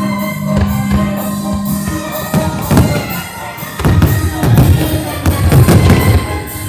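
Music playing loudly over a fireworks display, a long low note at first. About four seconds in, a rapid run of heavy low booms starts: fireworks bursting along with the music.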